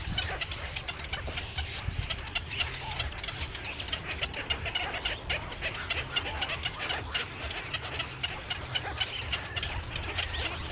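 A crowd of birds calling continuously, many short overlapping chirps, with a low steady rumble underneath.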